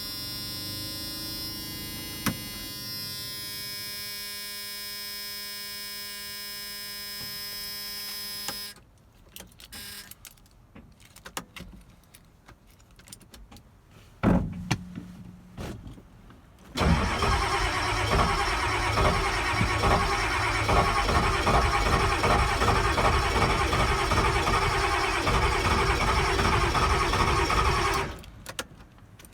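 A steady warning buzzer sounds for about nine seconds, followed by a few clicks and a brief buzz. Then the starter cranks the cold 1984 Ford F-250's 6.9-litre IDI diesel in a rhythmic chug for about eleven seconds and stops without the engine catching. It is a cold start at about 25°F on failed glow plugs, tried without ether.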